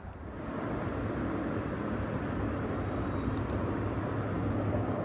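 Steady drone of a passing motor engine, building about half a second in and then holding.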